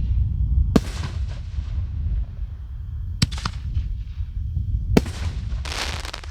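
5-inch canister firework shells going off: three sharp, separate booms a couple of seconds apart, then a longer hissing crackle near the end, over a steady low rumble.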